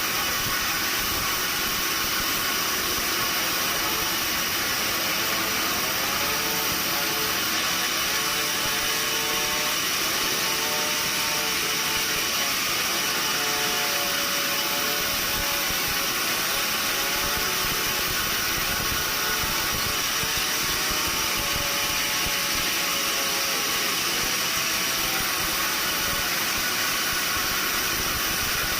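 Steady, loud machinery noise with a strong hiss and no breaks or impacts. Faint wavering tones rise and fall through the middle of it.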